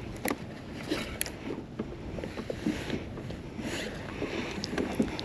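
Water sloshing against a kayak hull in swells that rise and fade, with scattered light clicks and knocks and some wind on the microphone.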